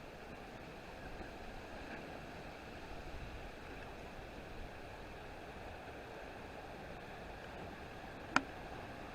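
Steady rushing background noise with one sharp click about eight seconds in.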